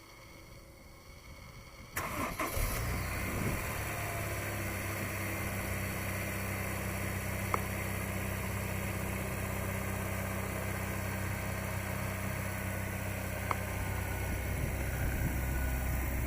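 2006 Honda S2000's four-cylinder engine cranked and firing on a cold start about two seconds in, then running at a steady cold idle.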